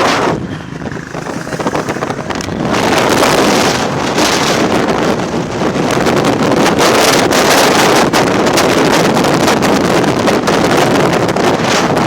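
Wind rushing and buffeting over the microphone of a moving motorcycle, growing louder about two to three seconds in.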